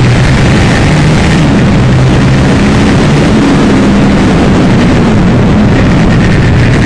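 Aprilia Tuono's V-twin engine running hard under a loud, dense rush of noise, its pitch shifting up and down as the bike speeds up and slows.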